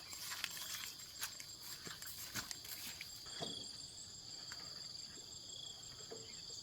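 Insects trilling steadily in a constant high-pitched drone, with a short chirp repeating every second or two. Scattered sharp clicks and knocks come in the first half and stop about three and a half seconds in.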